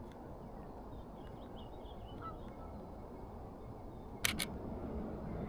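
A Canon EOS RP camera shutter firing once, two sharp clicks in quick succession, about four seconds in. Under it sit steady low background noise and a few faint bird chirps.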